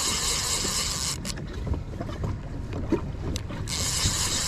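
Fishing reel drag buzzing in two spells as a hooked fish pulls line off, with bumping handling noise underneath.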